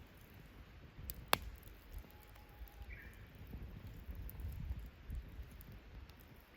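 Campfire wood crackling with scattered small ticks and one sharp pop about a second in, over a low rumble.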